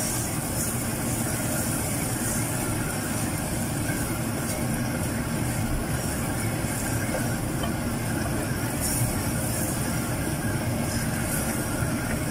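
Wooden spoon stirring soaked yellow moong dal through hot oil and fried masala in a thick-bottomed clay pot, over a steady low sizzle.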